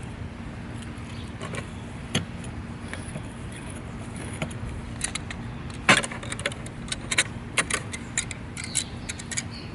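Metal tools and fittings clinking and clicking as they are handled: scattered sharp clicks, busier in the second half, over a steady low hum.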